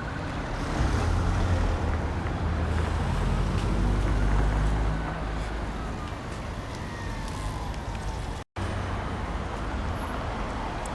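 Road traffic, with a heavy vehicle's engine rumble swelling about a second in and fading away after about five seconds. The audio cuts out for a split second near the end.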